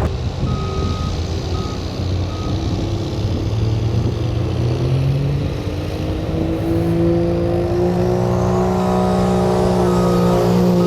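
Diesel pulling truck's engine running, its pitch climbing from about halfway through and then holding high as it revs. A backup alarm beeps a few times near the start and again near the end.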